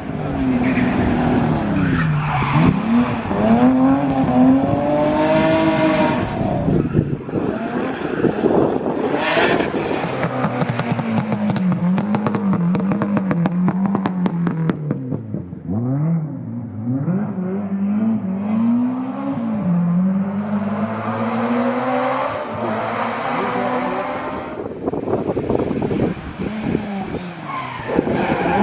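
Historic rally car engines revving hard, their pitch rising and falling again and again with throttle and gear changes as the cars drift through the stage. A few short bursts of tyre squeal come as they slide.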